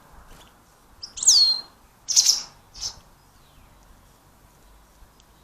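Small bird calling three times: first a clear high whistle that slides down in pitch, then a harsher, noisier call and a shorter one just after it.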